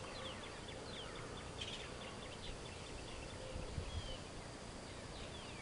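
Many short chirps and calls of marsh birds, scattered and overlapping, over a steady background hiss.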